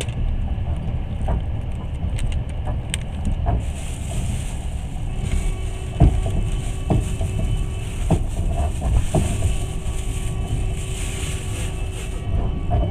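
Passenger train running, heard from inside the carriage: a steady low rumble of wheels on track, with a hiss joining about three and a half seconds in and sharp knocks roughly once a second in the second half, wheels striking rail joints.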